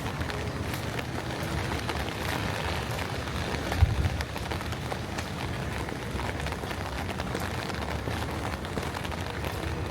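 Steady outdoor noise with a low rumble throughout, and a single thump nearly four seconds in.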